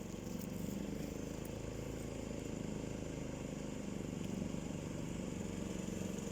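A swamp buggy's engine running steadily, rising slightly in level in the first second.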